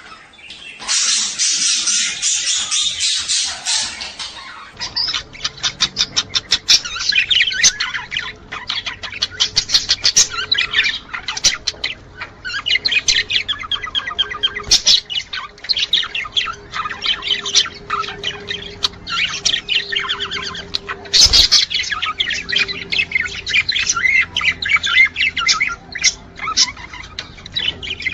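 Budgerigars chattering and warbling without a break, a dense run of rapid clicks, chirps and harsh squawks: the courtship warble of male budgies in breeding season. One sharp thump comes about two-thirds of the way through.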